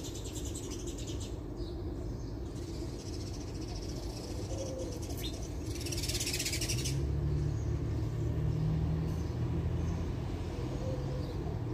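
A bird calls now and then with short low notes over a steady outdoor hum. There is a brief hiss about halfway through, and after it a louder low drone comes in and stays.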